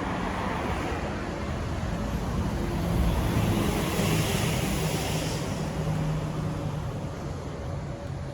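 Volkswagen Crafter's 2.0 TDI diesel engine running, its low note shifting in pitch, with a swell of louder, hissier noise about halfway through.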